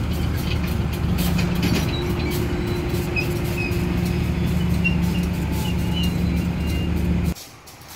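Parcel train's cargo wagons rolling slowly past on the rails: a steady low drone with wheel clicks and a few faint high squeals. It cuts off suddenly near the end.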